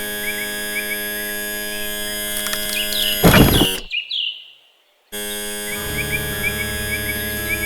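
A steady, synthesizer-like humming drone with small bird chirps over it. About three seconds in, a short, loud, noisy sound is followed by about a second of silence, then the drone and chirps resume.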